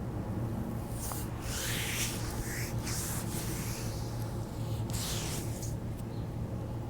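Hands rubbing and sliding over the skin of a foot during massage. There are two stretches of rubbing, one from about a second in to past three seconds and a shorter one about five seconds in, over a steady low hum.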